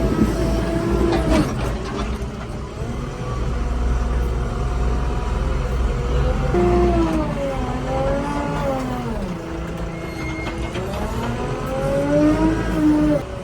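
Backhoe loader's diesel engine running steadily, with a whine whose pitch falls and rises twice as the engine speed changes under working load. The whine cuts off near the end.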